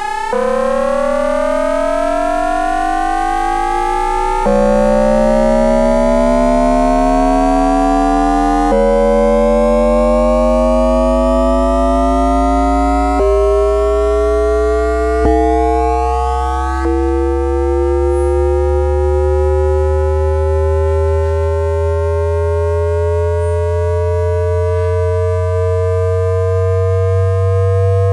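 Hitachi GTO-VVVF inverter and traction motors of a JR Shikoku 7000 series electric train accelerating. A whine of several tones rises in pitch, drops back and climbs again about five times in the first seventeen seconds as the inverter changes pulse modes, then rises smoothly over a low motor hum that grows stronger.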